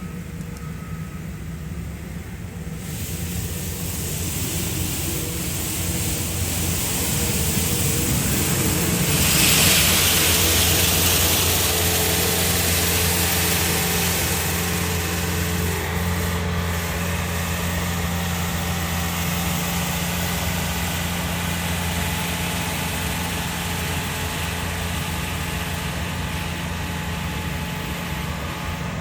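City street traffic: a vehicle engine running with a steady low hum, and a rush of passing-vehicle noise that swells to a peak about ten seconds in, then eases off.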